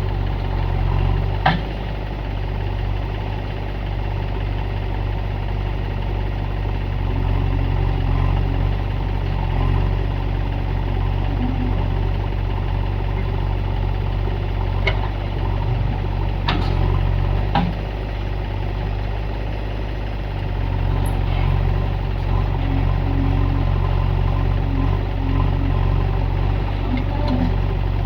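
Diesel engine of a JCB 3DX backhoe loader running steadily as it digs and loads mud, with a few sharp knocks, the clearest about a second and a half in and three more between 15 and 18 seconds in.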